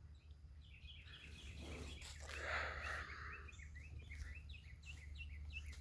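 Songbirds chirping faintly, a quick series of short repeated chirps, with a brief rustle about two seconds in.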